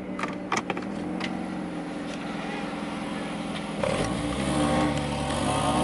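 Car engine drone with a few sharp clicks near the start. About four seconds in, a car engine accelerates, louder, its pitch climbing.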